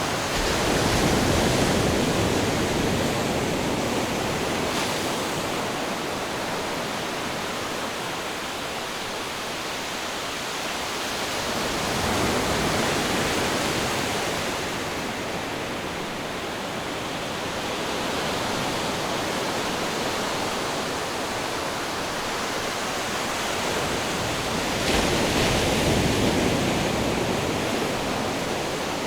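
Ocean waves breaking on a shore, a steady wash of surf that swells with a new wave about every twelve seconds, three times.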